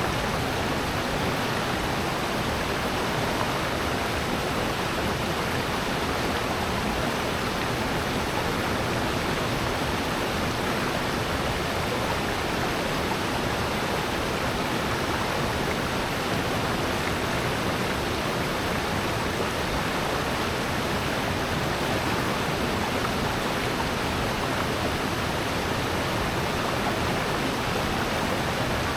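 Steady rush of a mountain stream and waterfall in a rocky valley gorge, even and unbroken.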